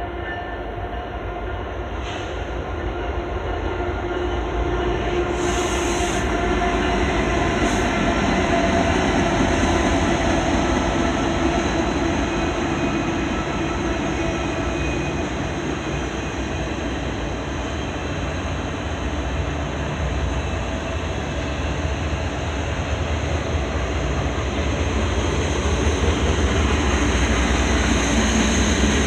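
CN freight train led by an EMD SD70M-2 and a GE ES44DC diesel-electric locomotive, their engines running steadily under a deep rumble. It grows louder over the first ten seconds and swells again near the end, with a few brief high-pitched squeals along the way.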